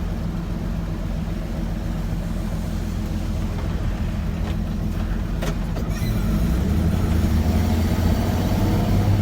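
1965 Chevrolet C10 pickup's inline-six engine running under way, with road noise. The engine gets louder about six seconds in.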